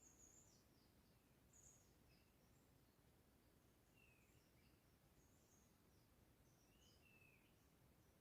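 Faint forest birdsong: short high chirps and whistled notes from small birds, scattered every second or so over a low background hiss.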